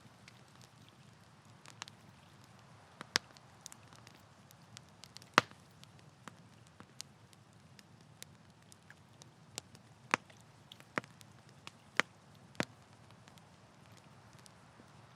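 Campfire crackling: irregular sharp pops and snaps from the burning wood, the loudest a little past five seconds in, over a faint steady low rumble of the flames.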